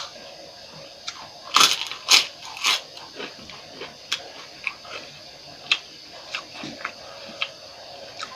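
Close-up chewing and crunching of food in the mouth. A burst of loud crunches comes about a second and a half in, followed by softer, scattered chewing clicks.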